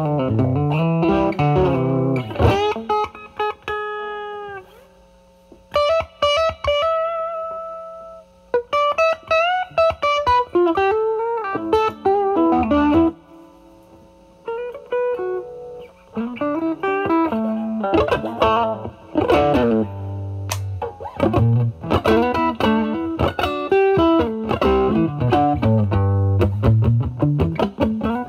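Overdriven electric guitar: a Stratocaster through a Vertex Steel String Clean Drive MK1 (J201 FET overdrive pedal) with its gain at maximum, into the drive channel of a Marshall Valvestate amp. It plays lead lines with string bends and vibrato, with a couple of short pauses.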